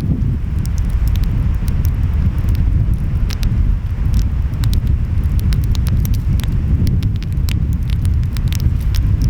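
Wood fire crackling, with frequent sharp pops scattered throughout, over a steady low rumble of ocean waves and wind.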